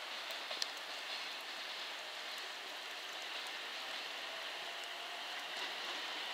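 A container freight train's wagons rolling slowly away on the rails: a low, steady hiss with a few faint clicks.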